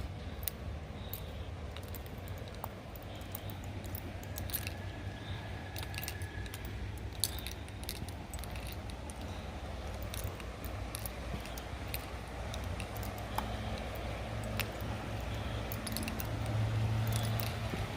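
Light metallic jangling and scattered small clicks, as of keys or tags jingling with each step, over a steady low outdoor rumble.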